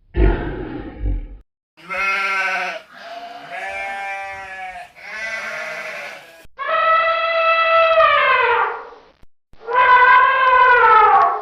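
A short low rough burst, then five pitched animal calls: three of about a second each, followed by two longer, higher calls that fall in pitch as they end.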